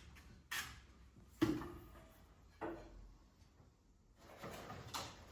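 Four separate knocks or clunks, the loudest about a second and a half in, the others at about half a second, near three seconds and near the end.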